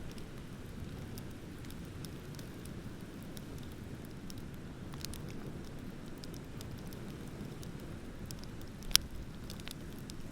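Beach bonfire crackling with scattered small ticks and pops, one sharp loud pop about nine seconds in, over a steady low rumble of ocean surf.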